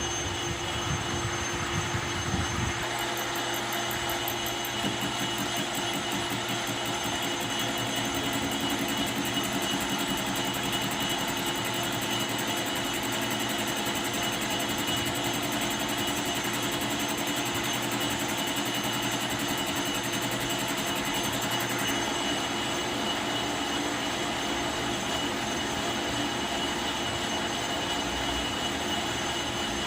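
Metal lathe running steadily, a continuous machine hum with several steady high whining tones. The low rumble drops away about three seconds in.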